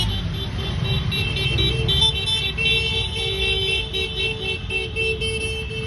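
Motorcycle engines running as a parade of bikes passes, with music playing over the engine noise.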